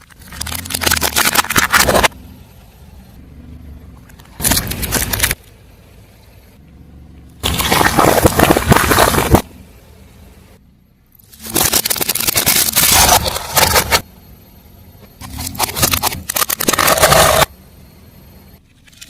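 Car tyre rolling over and crushing crunchy objects: five separate bursts of crackling and crunching, each one to two seconds long, starting and stopping abruptly, with a quieter low rumble between them.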